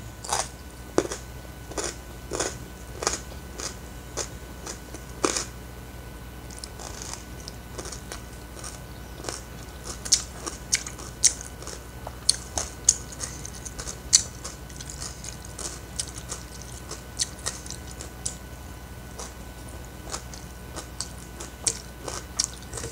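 A person chewing and smacking close to the microphone while eating rice and boiled cassava leaves by hand: irregular wet mouth clicks and smacks, a few each second, with occasional crunches.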